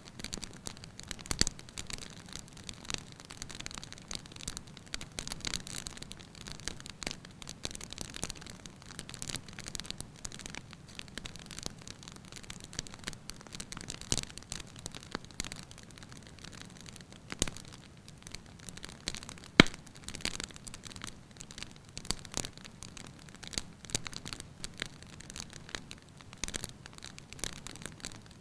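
Wood fire crackling in a fireplace: a steady hiss with frequent sharp pops and snaps, the loudest pop about two-thirds of the way through.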